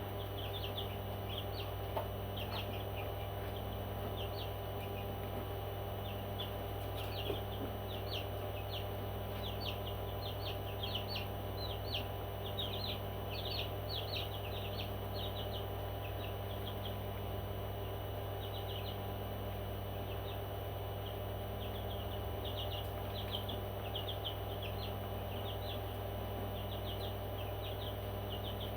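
Parrots chirping: many short, quick high chirps in irregular flurries, busiest in the middle and again near the end, over a steady low hum.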